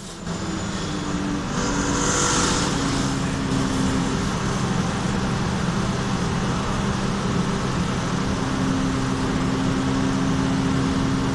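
A machine running steadily with a constant low hum, making what is described as an abnormal noise, with a brief hiss about two seconds in.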